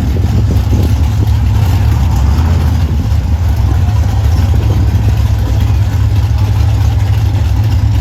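A car engine running steadily, with a strong low rumble and no change in speed.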